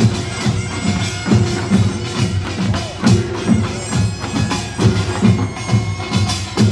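Korean nongak ensemble playing: heavy drum strokes about twice a second under clanging small gongs and a nasal, reedy taepyeongso shawm.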